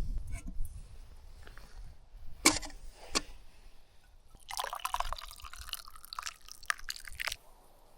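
Liquid pouring and splashing into a container for about three seconds, after two sharp clinks.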